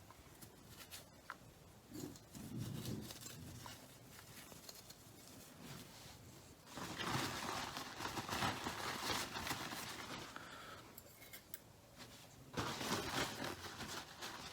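Small parts of a car headlight switch being handled and rubbed by hand: scratchy rubbing and scraping in three bursts, the longest about three seconds.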